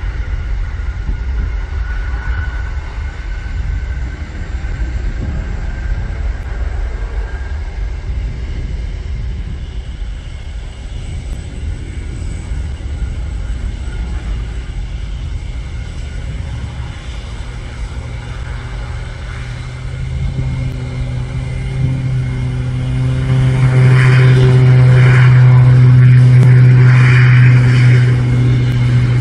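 Aircraft engines at an airport: a steady rumble with a faint high whine, then an aircraft passing close with a loud, steady low drone that builds about two-thirds of the way in and is loudest near the end.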